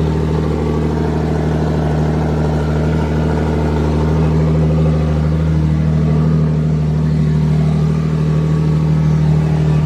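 Toyota 2JZ straight-six engine in a Mazda RX-7 idling steadily through its current exhaust, loud and deep with an even, monotone drone.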